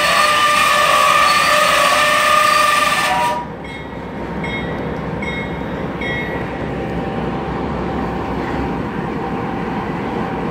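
Freight train's covered hopper cars rolling past close by: steel wheels rumbling on the rails with loud, steady squealing. The squeal drops away suddenly a little over three seconds in, leaving a quieter, steady rumble with short, repeated squeaks.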